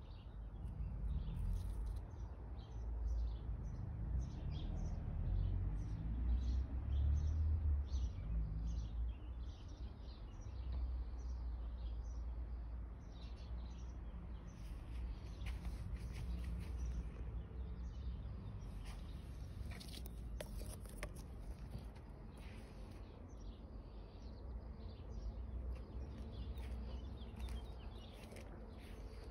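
Small birds chirping over and over, short high calls scattered throughout, over a low steady rumble.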